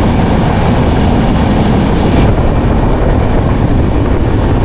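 Express passenger train running at speed, heard from an open door of its coach: a steady rumble of wheels on the rails with rushing air.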